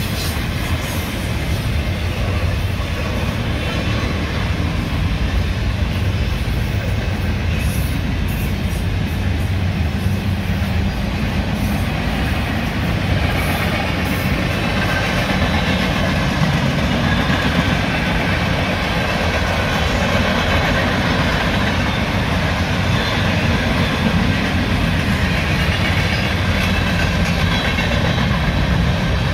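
Freight train cars rolling past on the track: double-stack container well cars, then covered hoppers near the end. Their wheels make a steady, heavy rolling rumble.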